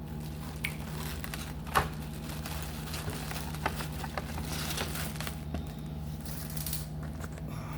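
Handling of diecast toy-car packaging: crinkling and rustling of plastic and cardboard with scattered small clicks and taps, the sharpest tap about two seconds in, over a steady low hum.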